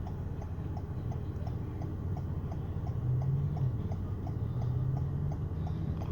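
Rapid, even mechanical ticking, about four ticks a second, over a steady low rumble, with a low hum joining about halfway through.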